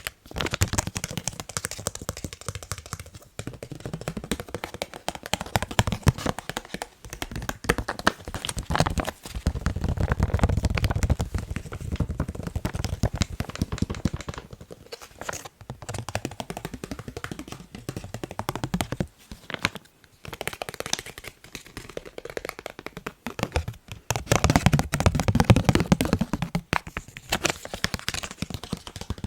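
Fast, dense tapping on a face mask, a rapid stream of small taps that stops briefly a few times.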